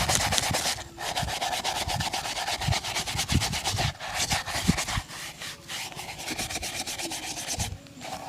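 Shoe-shine brush buffing a leather shoe in rapid back-and-forth strokes, with short pauses about a second in and near the end.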